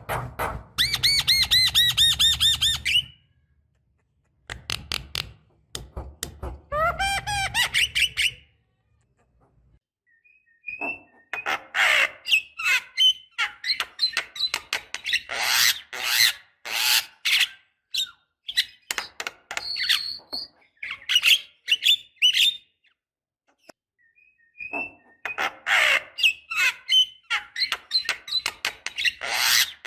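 Javan myna calling: a fast whistled trill at the start and a rising whistled phrase about seven seconds in, then from about eleven seconds long runs of harsh chattering and clicking calls, with a short pause near the end.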